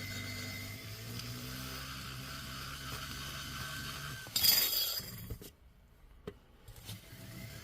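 A small power tool runs with a steady hum while polishing a chainsaw cylinder's exhaust port with aluminum polish. It stops about four seconds in, followed by a brief loud clatter, then near quiet with a couple of light clicks.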